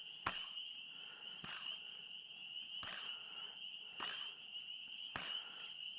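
A steady, high-pitched evening chorus of calling animals, with sharp clicks about once a second.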